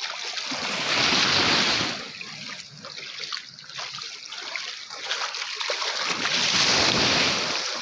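Rushing, splashing water that swells loud twice, about a second in and again near the end, easing off in between.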